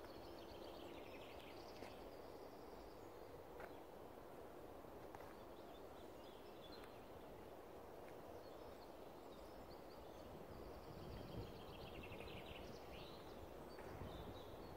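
Near-silent woodland ambience with faint songbirds trilling several times in the background.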